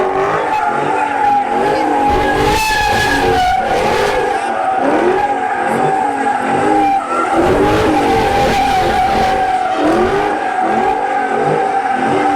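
A car drifting: its tyres squeal in one long, steady screech while the engine revs rise and fall again and again.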